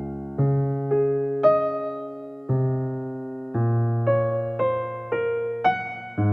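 Soft background music on electric piano: single notes and chords struck about once or twice a second, each fading before the next.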